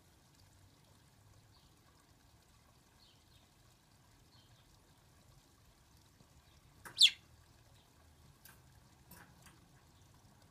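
A quiet room with a pet bird moving about its wire cage: a few faint light ticks, one sharp, short sound about seven seconds in, then a couple of softer clicks.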